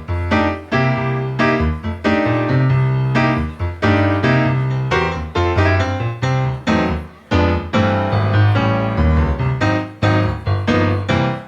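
Background music on piano: a run of struck notes over a low bass line.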